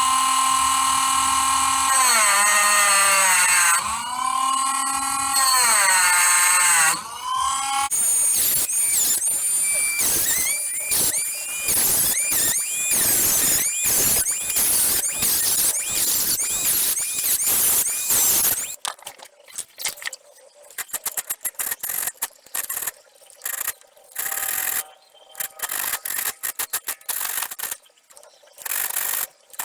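Metal-on-metal squealing as a tool cuts thumb-grip notches into a steel knife blank. It starts as a loud squeal that bends up and down in pitch. About eight seconds in it turns into repeated squealing strokes, about one and a half a second. From about two-thirds of the way through it breaks into short, choppy scraping bursts.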